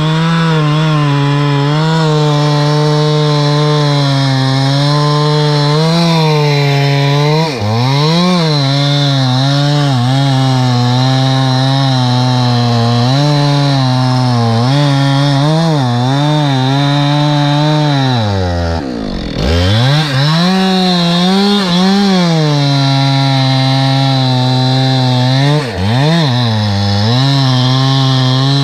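Chainsaw running at high revs as it cuts wood, its pitch wavering as the chain loads and unloads. About two-thirds of the way through, the revs fall away sharply, almost to a stop, then pick back up.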